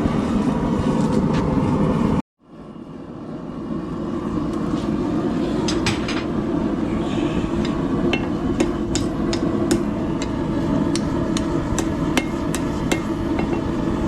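Blacksmith's hammer striking hot steel on an anvil, a run of separate blows that come faster in the second half as the tip of a holdfast is drawn down, over a steady low roar. The sound drops out briefly about two seconds in.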